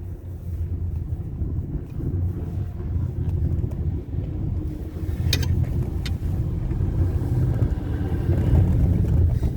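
Low, steady rumble of a four-seat chairlift ride, with wind on the microphone, swelling toward the end. Two short sharp clicks come about five and six seconds in.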